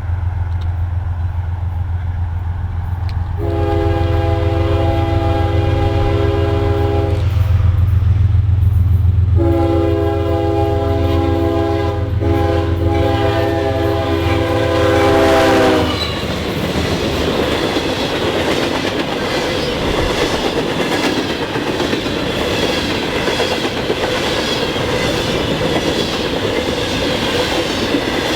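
Freight train led by GE ES40DC and C40-9W diesel locomotives passing close by. The engines run with a steady low drone while the locomotive horn sounds two long blasts, the second longer. About halfway through, the horn and engine drone stop as the locomotives go by, and the freight cars roll past with wheels clattering over the rail joints.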